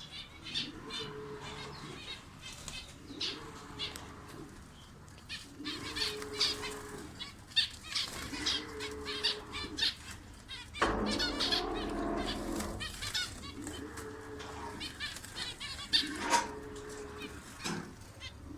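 Birds flapping and fluttering their wings while chirping, with a low two-note call repeating about every second and a half. A louder, rustling burst of flapping comes a little past the middle.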